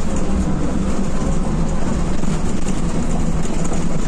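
Bus running at speed on the road: a loud, steady low engine rumble mixed with tyre and wind noise.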